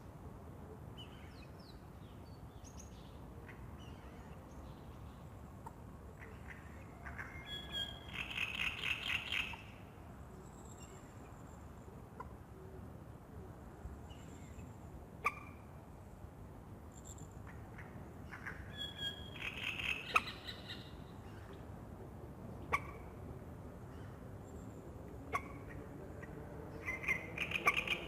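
Wild birds calling at dawn by a lake: scattered short chirps, with louder bursts of rapid trilled calls about eight seconds in, about nineteen seconds in and again near the end. A few isolated sharp ticks sound over a steady low background hush.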